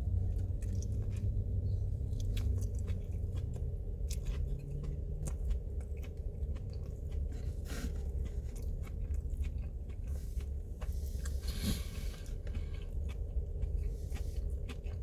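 Close-miked chewing and biting of saucy, spicy food, with many small wet mouth clicks over a steady low hum.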